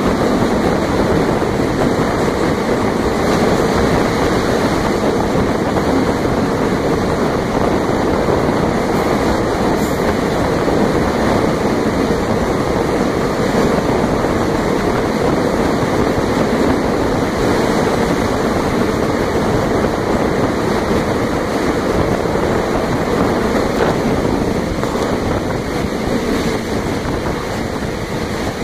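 Train running, heard from on board: a steady rumble and rush of wheels and air with no distinct clicks, easing slightly near the end.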